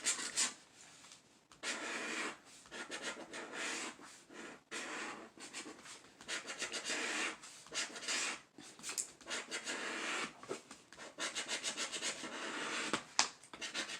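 A scratch-off lottery ticket's coating being scratched away in quick rasping strokes, in runs of a second or two with short pauses between.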